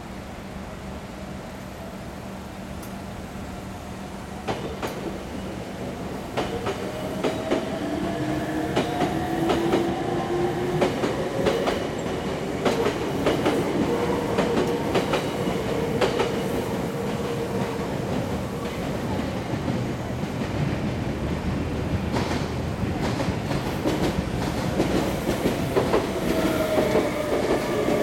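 Meitetsu electric train passing over the level crossing, its wheels clicking over the rail joints. It grows louder from about four seconds in, with a motor whine that rises in pitch partway through.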